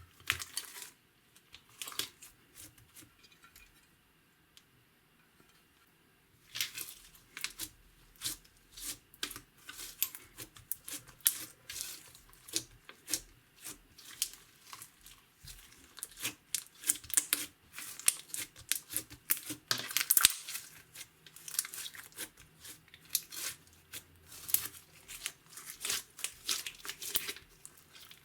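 Clear slime being mixed by hand, giving a run of sharp sticky pops and crackles, sparse for a few seconds about three seconds in, then dense again.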